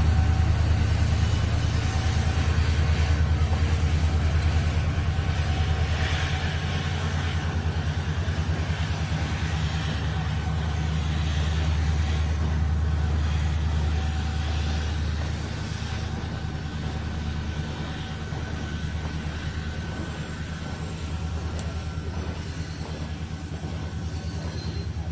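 Freight train passing: a steady, heavy low rumble with a fast, even flutter, slowly fading.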